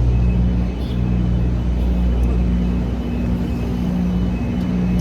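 City street traffic: a vehicle engine idling or running nearby with a steady low hum and rumble.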